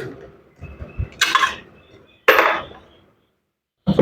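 Metal parts and tools being handled: clanks and scrapes, the two loudest about a second and two seconds in, each dying away quickly.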